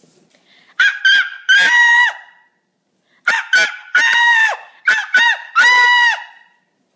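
A boy's high-pitched, goose-like honking noise made with his voice, in two runs of calls: three, then five. Some calls are clipped short and others held for over half a second, each dropping in pitch at its end.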